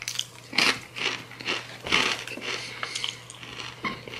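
Close-up crunching and chewing of a Takis Blue Heat rolled tortilla chip, with crisp bites coming about twice a second.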